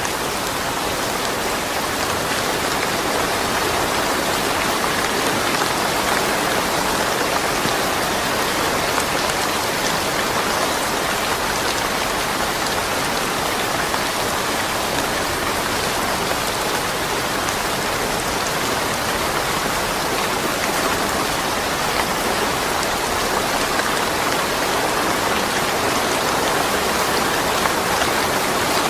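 Steady rain falling, an even wash of drops with no thunder.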